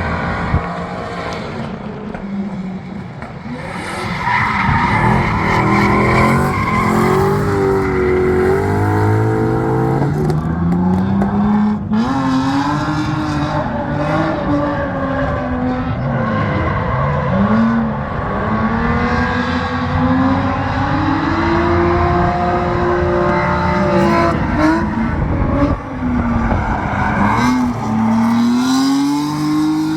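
Audi TT MK1 drift car's engine being revved hard, its pitch climbing and dropping again and again through the shifts and throttle blips of a drift run, with tyre squeal.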